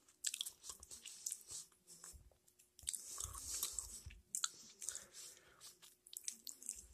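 A person chewing a soft mouthful of potato in gravy close to the microphone: faint, irregular wet mouth clicks.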